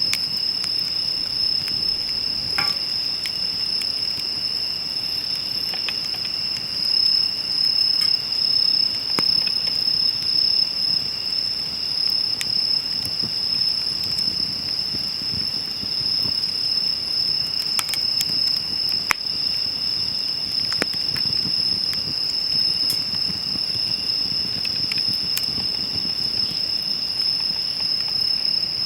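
Steady high-pitched trilling of insects, with scattered sharp crackles and pops from burning firewood.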